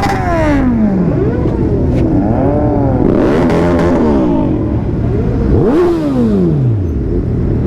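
Motorcycle engines revving up and down, several rising and falling sweeps in pitch, with one sharp rev about five and a half seconds in that falls away over the next second and a half.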